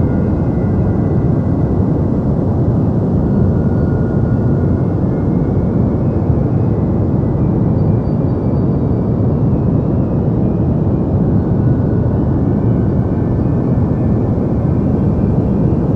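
Deep white noise for sleep: a steady, even rushing hiss weighted toward the low end, with little in the highs and no change in level.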